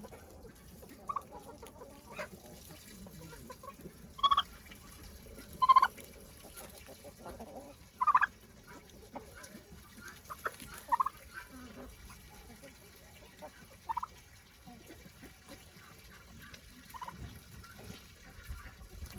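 Chickens clucking: short, separate calls scattered through, the loudest about four, six and eight seconds in.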